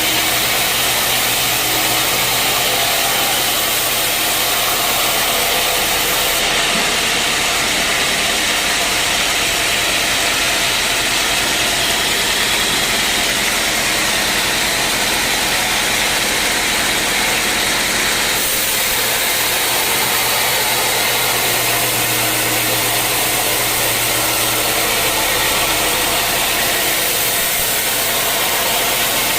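Sawmill machinery running steadily: a loud, even noise of motor-driven sawing over a low steady motor hum, with no breaks.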